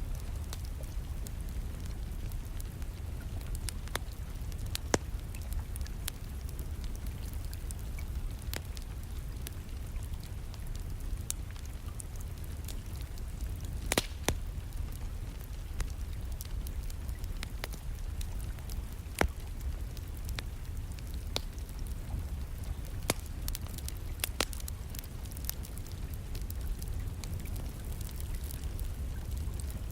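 Wood fire crackling with irregular sharp pops, a few of them louder, over a steady low rumble, with rain falling in the background.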